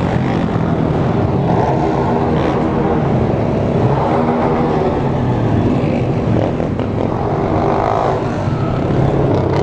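A group of small motorcycle engines running and revving together, several pitches rising and falling over one another.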